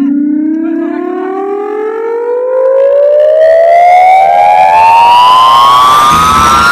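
Loud siren-like rising sweep played through a DJ sound-box speaker system: a single pitched tone climbing slowly and steadily in pitch, with a low bass rumble coming in about three seconds in.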